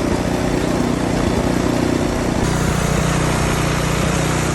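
A motor vehicle's engine running steadily, with a shift in the sound about halfway through as more hiss comes in.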